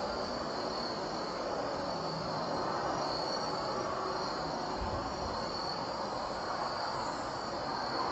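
Crickets or katydids chirping in a steady high band, over a constant low hiss of outdoor night noise.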